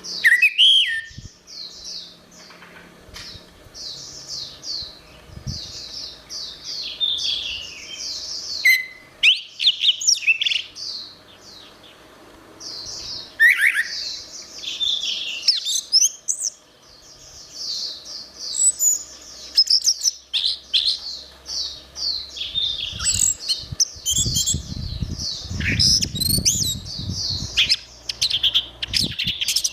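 Orange-headed thrush singing a long, near-unbroken run of quick, varied high phrases. A low rumble underlies the song for several seconds near the end.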